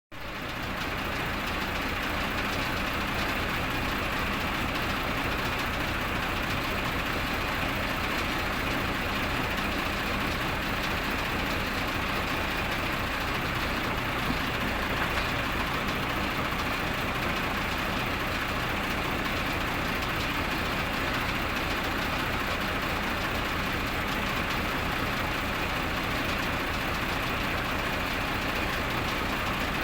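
Engine running steadily at idle, with a fast, even low pulsing from its firing.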